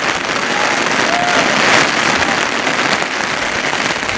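Heavy monsoon rain drumming steadily on an umbrella held overhead, a dense crackling patter.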